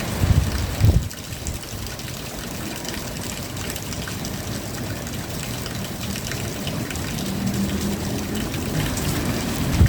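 Steady rain falling, with a few heavy low thumps in the first second and again at the very end. A low hum comes in during the second half.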